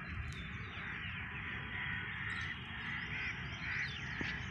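Bird calls outdoors: a string of short calls about every half second, over a steady low rumble.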